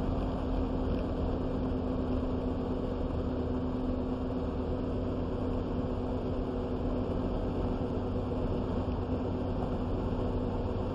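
Engine and road noise heard from inside a moving vehicle's cabin: a steady low rumble with a constant engine hum.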